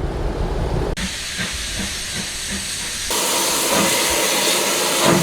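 Steam locomotive hissing steam, with a few soft exhaust chuffs; the hiss jumps louder about three seconds in.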